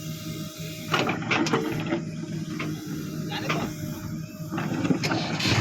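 A diesel machinery engine running steadily, with a series of irregular clanks and knocks from about a second in.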